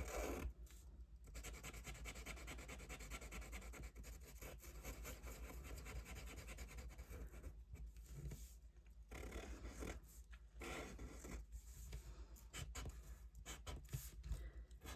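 Faint scratching and rubbing on paper, like hand drawing or writing, in long stretches with a few short pauses.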